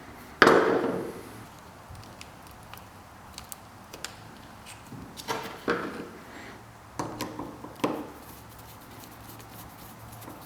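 A sharp knock with a short ringing decay about half a second in, then a few lighter clicks and knocks, from handling parts during restoration work.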